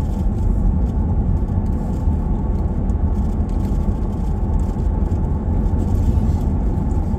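A car driving at road speed, heard from inside the cabin: a steady low rumble of engine and tyres on the road.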